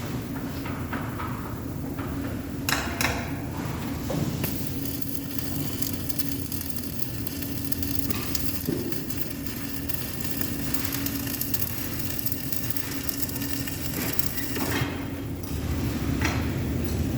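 Arc welding: a steady hum with a crackling hiss, broken by a few sharp metal knocks, one about three seconds in and others near the end.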